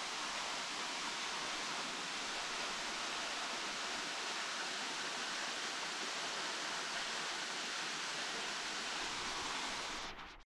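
Small waterfall splashing into a forest stream, a steady, even rush of water that fades out about ten seconds in.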